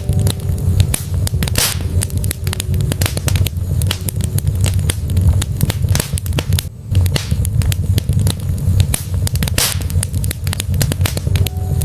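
Wood fire burning in a fireplace: logs crackling with frequent sharp pops over the low, steady rumble of the flames.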